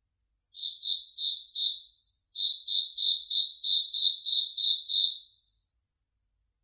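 Cricket chirping: four high chirps, a brief pause, then about nine more at roughly three a second, stopping a little after five seconds in.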